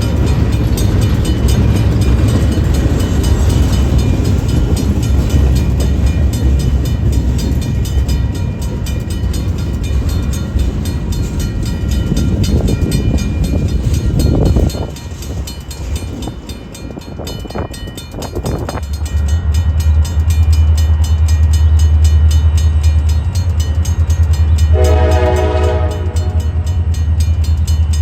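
Freight train passing with a loud low rumble that drops off sharply about halfway through, followed by a diesel locomotive's steady low drone and a short horn blast near the end.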